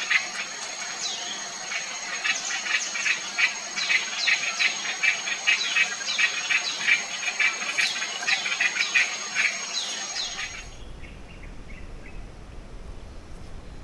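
Forest birds calling in a fast run of short, high, downward-sliding notes over a steady high insect whine. About two-thirds of the way through, both stop abruptly and a low rumbling noise takes over.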